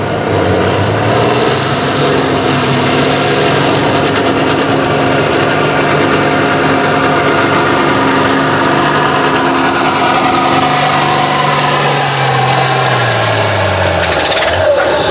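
International Harvester 1486 tractor's six-cylinder turbo diesel engine running flat out, pulling a weight-transfer sled in a farm-stock class. Its note holds steady, then drops in pitch over the last few seconds as the pull ends.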